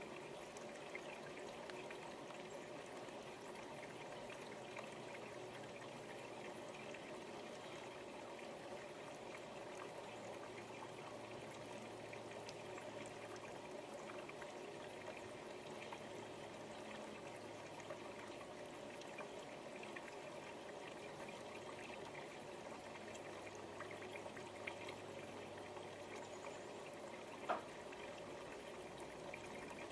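Faint, steady rushing background noise, like running water, with a single short click about twenty-seven seconds in.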